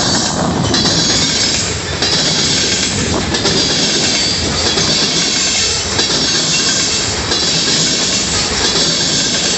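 Loaded freight cars rolling past close by: steel wheels rumbling on the rails, with a continuous high screech of wheel squeal over it and an occasional clack at rail joints.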